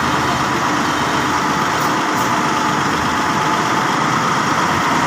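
Heavy vehicle's engine running steadily, with a constant mechanical rumble and no change in speed.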